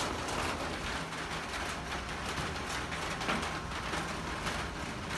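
Steady rain falling on a tin roof, a dense patter of drops that makes the rain sound heavier than it is.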